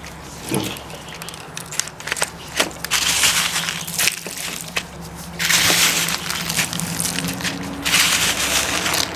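Loose birdseed rustling and crackling as it is scooped and pressed onto a peanut-butter-coated pine cone, in several bursts, the three loudest each lasting about a second.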